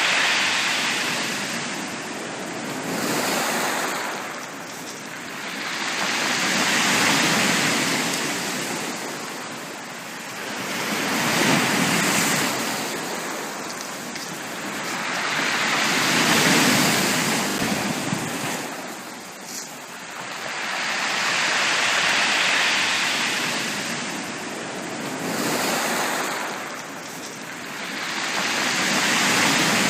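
Ocean waves breaking on a beach, the surf swelling and washing back about every five seconds.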